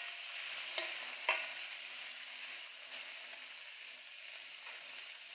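Shrimp, baby corn and carrots sizzling in oil in a stainless steel pan while being stir-fried, with a steady hiss. A spatula clinks and scrapes against the pan twice in the first second and a half.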